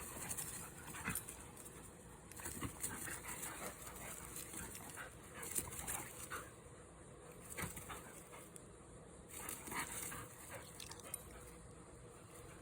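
Dogs playing together, with faint, scattered short whimpers.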